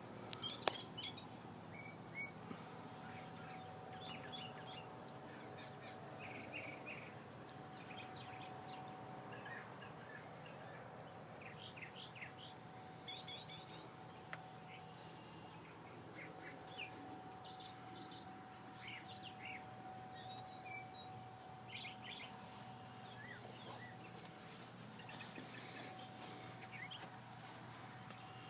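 Birds chirping and calling in short, scattered notes throughout, over a faint steady low hum and a thin steady tone.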